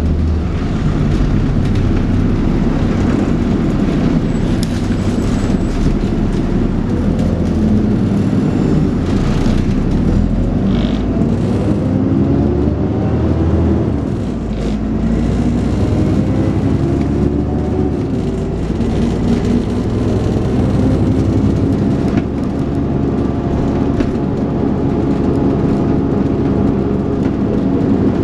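Dennis Trident 2 double-decker bus engine working hard under acceleration, thrashing with the vacuum-cleaner-like whine enthusiasts call a 'hoover'. Its pitch falls and climbs with gear changes, with a short dip about halfway through before it pulls up again.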